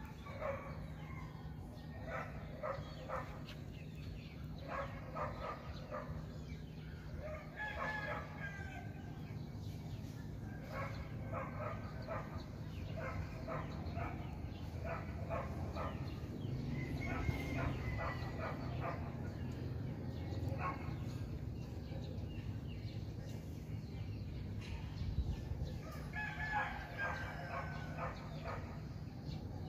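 Birds calling in repeated bouts of a second or two, several seconds apart, over a steady low hum.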